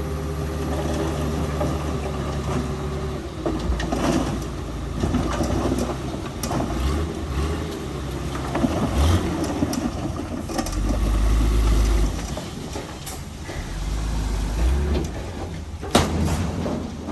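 Heavy diesel engine running steadily, then revving up and down as if under load, with a few sharp knocks and clanks.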